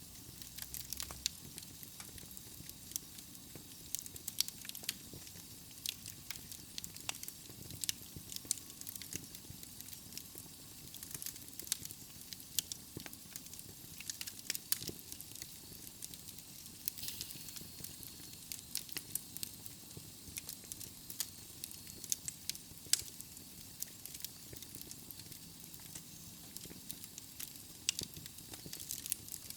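Wood fire burning in a fireplace: a steady soft hiss with frequent irregular crackles and pops from the burning logs.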